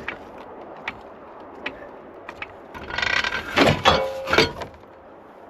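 A few light clicks, then about three seconds in a loud second and a half of metal crunching and scraping with a ringing, metallic tone, as the Jeep Grand Cherokee's body comes down onto the jack beneath it.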